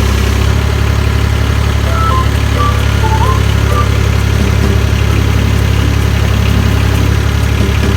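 An engine idling steadily with a low, even hum. A short run of a few high notes sounds about two to three seconds in.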